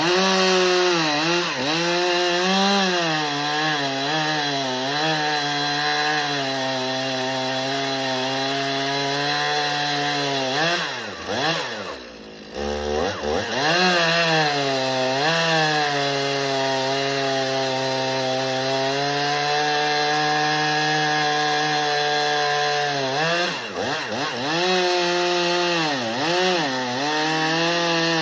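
Stihl MS391 two-stroke chainsaw running at high revs while cutting wood, its engine pitch sagging and recovering as the chain loads up in the cut. Near the middle the revs and level drop briefly, then the saw revs back up and carries on cutting.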